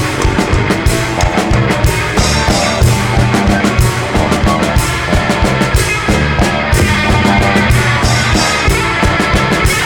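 Rock band playing an instrumental passage: drum kit keeping a steady beat under guitar and bass, no singing.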